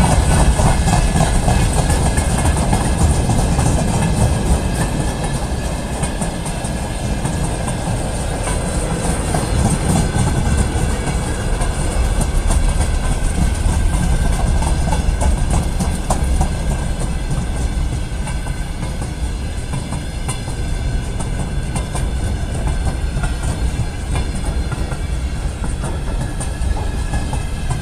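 A long freight train of hopper wagons, tank cars and gondolas rolling past close by, wheels clattering over the rail joints under a steady heavy noise of running gear. It is loudest in the first few seconds.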